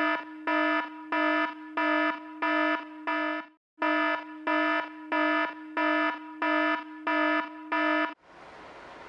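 iPhone alarm beeping: a steady run of short identical tones, about two a second, with a brief break after about three and a half seconds. It cuts off a little after eight seconds as the alarm is slid off.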